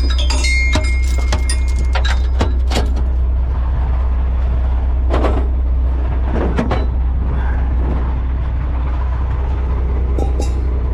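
Heavy tow truck engine idling with a steady low hum, while metal chain rigging clinks and clanks as it is handled, many quick clanks in the first few seconds and a few more around the middle.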